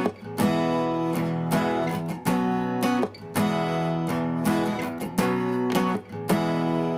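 Background music: strummed acoustic guitar chords, one about every second, in a song's instrumental introduction.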